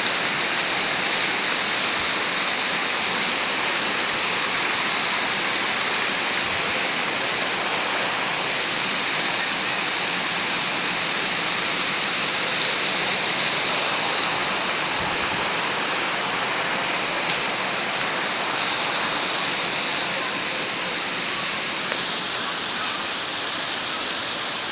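Steady rain falling, an even unbroken hiss of downpour.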